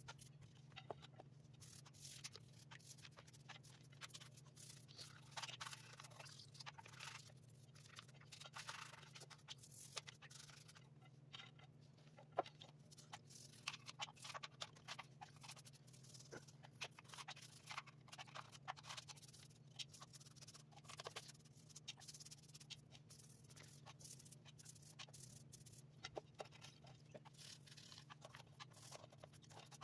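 Faint, scattered clicks, rattles and scrapes of small hard parts being handled, over a steady low hum.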